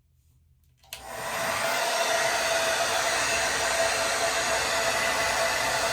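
Revlon Turbo 1875-watt hair dryer switched on with a click about a second in, quickly rising to a steady rush of air with a steady motor whine, running on its cool heat and low speed setting.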